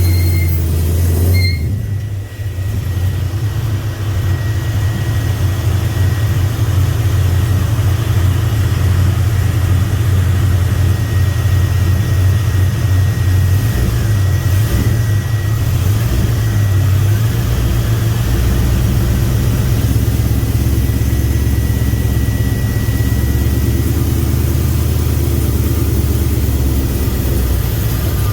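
Truck's 5.3 L LS V8 running at idle, steady apart from a brief dip about two seconds in. The engine has a slight misfire under idle and load, which the owner suspects is a lack of fuel.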